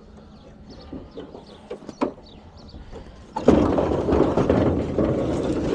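Faint scattered clicks and ticks, then about three and a half seconds in a sudden loud scraping, rattling clatter of scrap metal and debris being handled.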